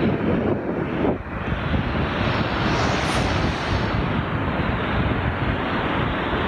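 Strong wind blowing over the microphone, with the steady rush of waves underneath; the sound drops briefly about a second in.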